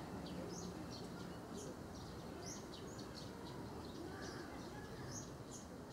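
Small birds chirping, many short sharp high notes a few times a second, over a steady low background hum.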